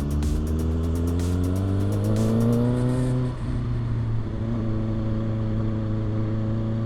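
Kawasaki ZX-6R's inline-four engine pulling under acceleration, its pitch rising for about three seconds, then dropping sharply at a gear change and running steadily at a lower pitch.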